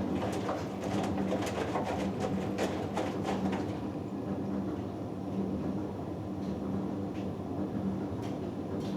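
Hoover Dynamic Next front-loading washing machine partway through a Cotton 90 cycle: steady motor hum with water sloshing and splashing in the turning drum, busiest for the first few seconds and then quieter.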